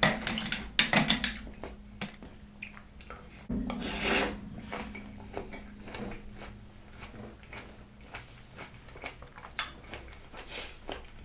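A spoon clinking and scraping in a bowl of fruit, ice and coconut water, with close-up chewing of the fruit. The sound is a run of small irregular clicks with a few louder bursts, the strongest about four seconds in.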